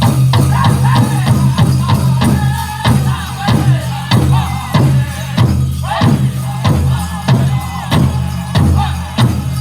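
Powwow drum group singing a chicken dance song: a large hand drum struck by several drummers in a steady beat, a little under two strokes a second, under high-pitched men's voices singing together.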